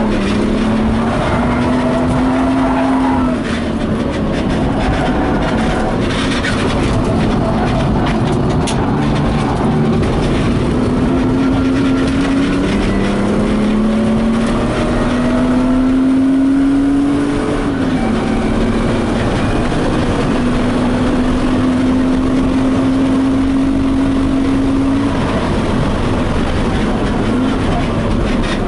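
BMW E36 coupe track car's engine under hard driving, heard from inside its stripped cabin over loud tyre and road noise. The pitch climbs slowly and falls back a few times as the car accelerates and changes gear.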